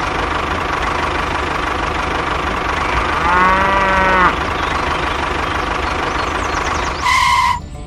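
Tractor engine idling steadily. About three seconds in, a cow moos once for about a second. Near the end there is a short, loud beep.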